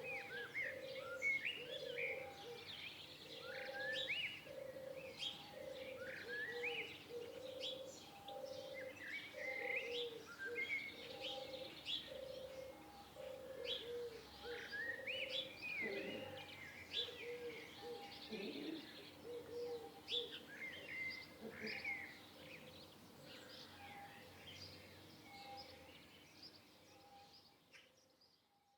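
Several small birds chirping, many with quick upward-sweeping calls, over a low note repeated about once a second. The sound fades out near the end.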